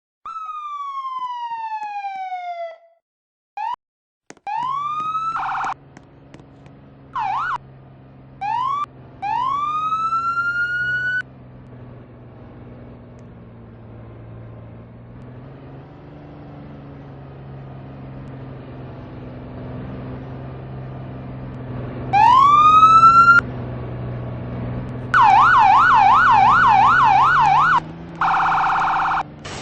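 Fire truck's electronic siren sounded in short bursts: a long falling sweep, several quick rising whoops, a fast warble, and a flat blaring horn tone near the end. The truck's engine idles underneath from a few seconds in.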